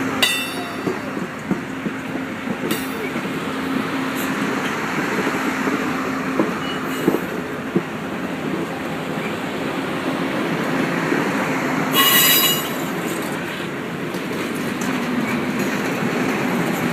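Amtrak passenger train cars rolling past: a steady rumble of wheels on rail with scattered clicks, and short high-pitched wheel squeals, the loudest about twelve seconds in.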